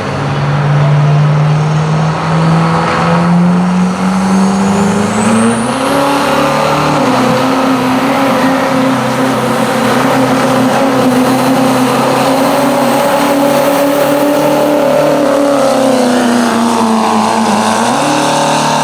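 Modified diesel pickup truck engine under full load pulling a sled: revs climb over about six seconds and hold high and steady for most of the run, then sag near the end before a brief surge. A thin high whistle rises with the revs in the first few seconds.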